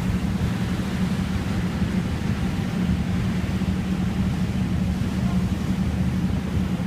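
Motorboat engine running with a steady low drone, over a rush of wind and water.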